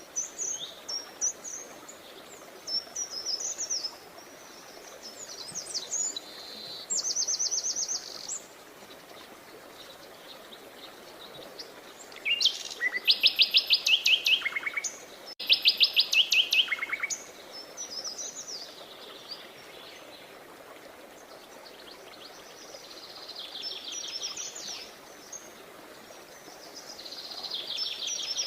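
Several songbirds chirping and singing, with short chirps and trilled phrases; the loudest are two fast trills of rapidly repeated notes about halfway through. A faint steady hiss lies underneath.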